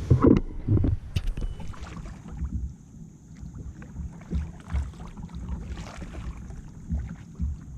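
Fishing kayak on the water: irregular low knocks and thumps against the hull with scattered small clicks, over low wind rumble on the microphone. The strongest thumps come in the first second.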